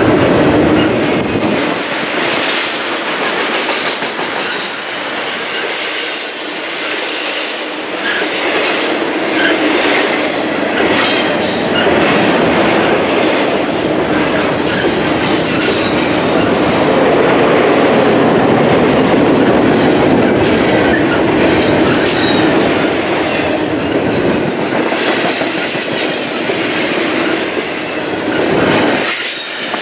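Double-stack intermodal container train rolling past: a loud, steady rumble of steel wheels on the rails, with clicks as the wheels cross rail joints and short high wheel squeals now and then.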